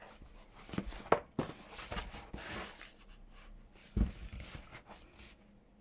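Paper and card being handled at a table: rustling, with a cluster of light taps and clicks and a heavier thud about four seconds in.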